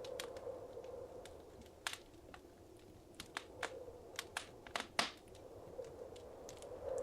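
Wood fire crackling in a fireplace: irregular sharp pops and snaps over a soft, low hiss of burning, with the loudest pop about five seconds in.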